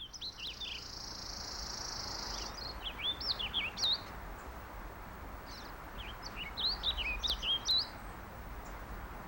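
Wild birds chirping and singing in quick rising and falling notes, coming in clusters, over a steady outdoor background hiss. A higher, even hiss sounds for the first two and a half seconds and then stops.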